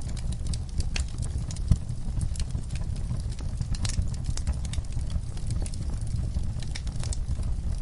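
Wood fire burning in a fireplace: a low steady rumble of the flames with frequent sharp, irregular crackles and pops from the burning logs, one louder pop about two seconds in.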